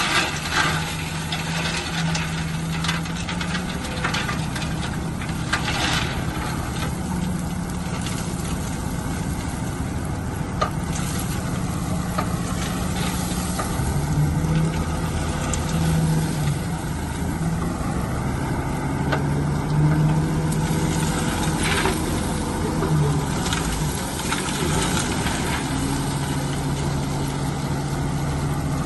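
Heavy construction machine's engine running steadily, its note rising and falling slightly as it works, with scattered short clanks and scrapes.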